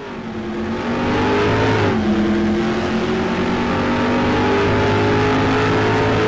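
A car engine running at high revs, its pitch dipping once about two seconds in and then holding steady, fading in at the start.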